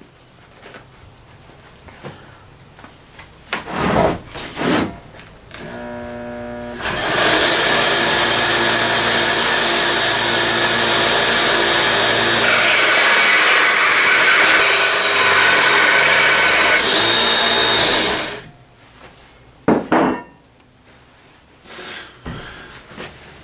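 A small bench belt sander switched on and spinning up, then the steel of a lawnmower-blade knife blank pressed against the running belt for about eleven seconds, giving a loud, even grinding hiss that stops sharply. A few knocks from handling come before and after the grinding.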